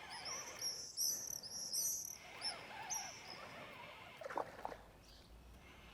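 A small songbird singing a fast run of short, high chirping notes for about two seconds, then a couple of single notes, over a faint outdoor hiss.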